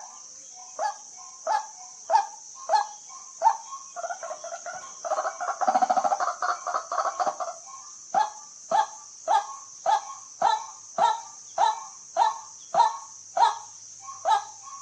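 White-breasted waterhen calling: short loud calls repeated somewhat under two a second, broken midway by a dense run of rapid notes before the steady repeated calling resumes.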